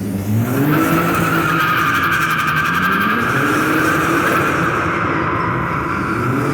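Nissan 300ZX twin-turbo's V6 revving in repeated rising surges while the tyres squeal steadily through a drift, the squeal starting about a second in.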